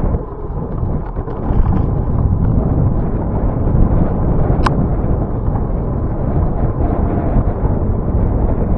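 Wind buffeting the microphone of a camera on a moving bicycle, a loud steady rumble, with one brief sharp high sound about halfway through.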